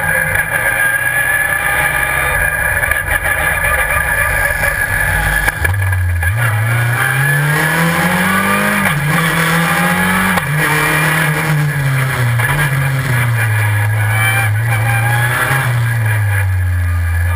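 Super FJ single-seater racing car's engine: a low rumble at first, then the revs climb as it pulls away. The pitch drops sharply at about nine and ten seconds as it shifts up through its dog-ring gearbox, then holds a steadier, wavering note.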